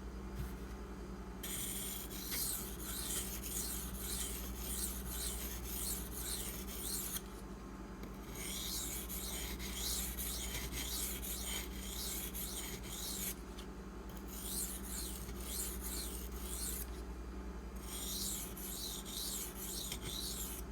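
Steel knife blade stroked back and forth on a coarse 150-grit oil stone, a quick rasping scrape in four runs separated by short pauses. The blade is Maxamet steel, and the friable stone is cutting it, breaking off the burr.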